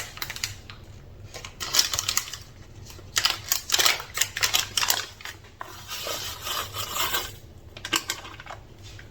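Kitchen prep handling: several short bursts of rustling and scraping with light clattering, a few seconds apart.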